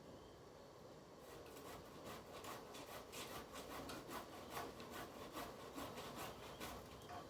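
Hand saw cutting through tree wood in quick, rhythmic back-and-forth strokes, starting about a second in.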